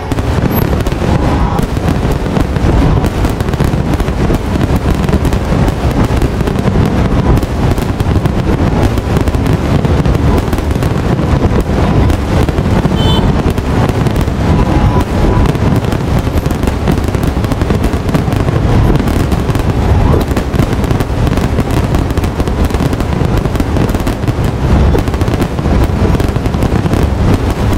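Aerial fireworks barrage: a dense, continuous run of shell bursts and booms with crackle, loud and without a break.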